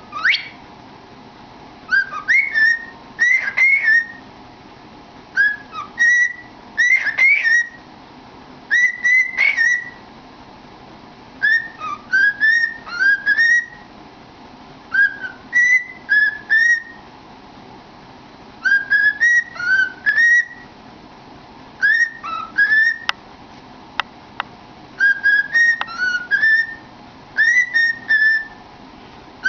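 Pet cockatiel whistling its song: short phrases of rising, chirpy whistled notes repeated every couple of seconds, with a slightly hollow ring from singing into a cardboard tube.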